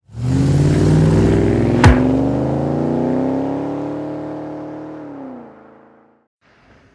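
Car engine accelerating hard, its pitch climbing steadily, then easing off and fading before cutting off abruptly about six seconds in. A single sharp crack about two seconds in.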